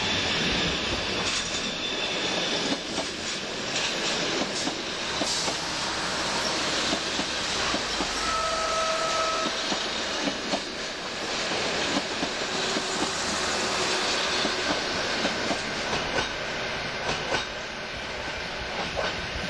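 A long train of ALn 668 diesel railcars and trailers rolling past at speed, with steady rumbling wheel and rail noise and irregular clicks. A short steady tone sounds about eight seconds in.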